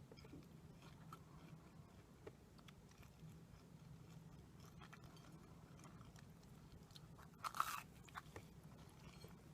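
Close-miked eating: faint chewing with small mouth clicks, and one short crisp crunch of a bite about seven and a half seconds in.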